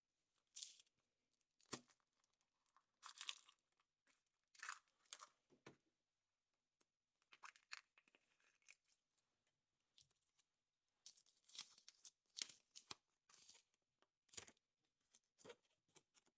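Foil wrapper being torn and crinkled off a chocolate surprise egg, in many short rustles with brief pauses between.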